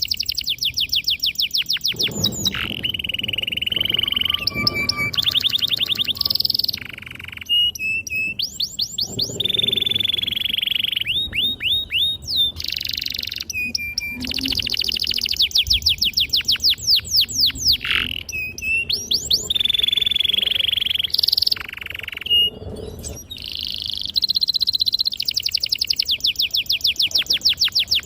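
Domestic canary singing a long, unbroken song: fast trills of rapidly repeated notes alternating with held whistled tones, with only brief pauses.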